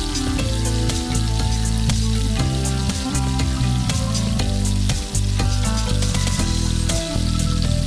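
Food frying in a pan, a steady sizzle full of fine crackles, under background music.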